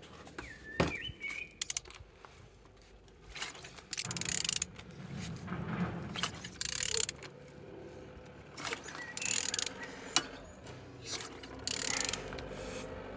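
Mercedes-Benz M111 four-cylinder engine being turned over by hand with a wrench: repeated strokes every second or two, with ratchet clicks and the grind of the engine rotating. It turns freely, so the engine is not seized.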